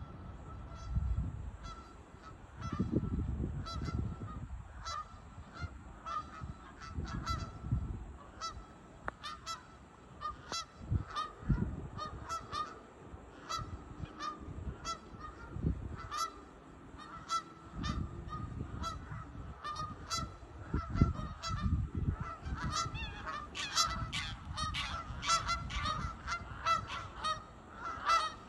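A flock of geese honking, with many short calls one after another that come thicker and faster in the last several seconds. Intermittent low rumbles sound under them.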